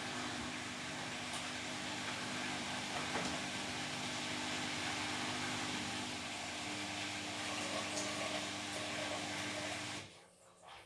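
Beko WTK104121W washing machine running with a steady whirring hum and hiss. The sound cuts off abruptly near the end.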